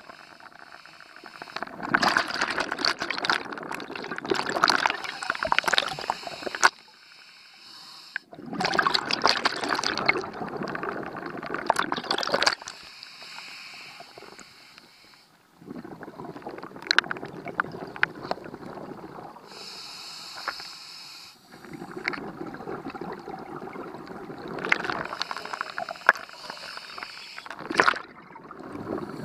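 Scuba diver breathing through a regulator underwater: long bubbling exhales of several seconds each, alternating with quieter hissing inhales.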